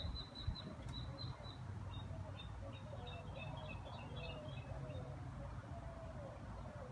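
Small birds chirping outdoors: a quick run of short, high chirps at first, then a looser scatter of chirps, over a steady low rumble.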